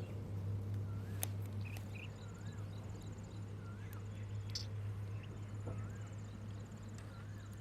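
Outdoor wildlife ambience: a bird repeats a short wavering whistle about once a second, an insect trills high and fast through the middle, over a low steady hum with a few scattered clicks.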